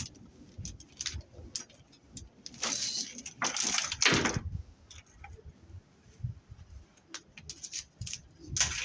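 Lengths of BX armored cable being handled and sorted, the spiral metal jackets clinking and rattling, with two longer rattles about three and four seconds in.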